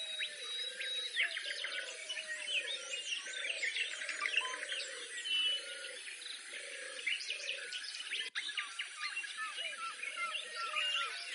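A gamebird calls in a series of low, evenly repeated notes, about two a second, over a busy chorus of high-pitched songbird chirps and trills. The low series fades out about three-quarters of the way through, and the sound drops out for an instant just before.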